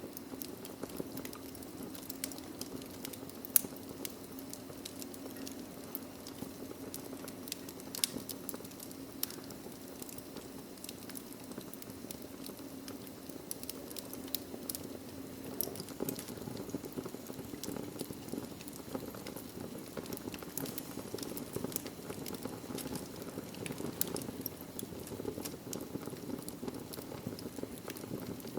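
Wood fire in a fireplace burning steadily: logs crackling with a constant stream of small pops and snaps over a low rush of flame, with a couple of louder pops about three and a half and eight seconds in.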